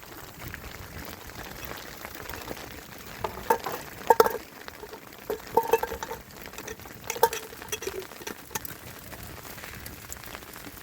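A steady hiss with scattered clinks and light knocks in the middle stretch, a few of them with a short ringing tone.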